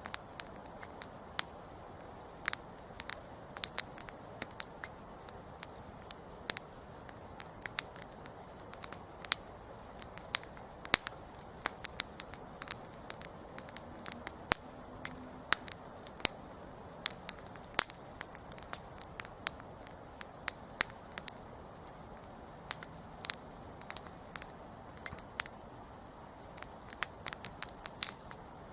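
Wood campfire crackling: irregular sharp pops and snaps, several a second, over a faint steady hiss of burning.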